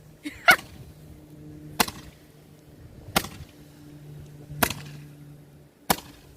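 Five sharp snaps at an even pace, about one every second and a half: the toy firework wand being fired repeatedly.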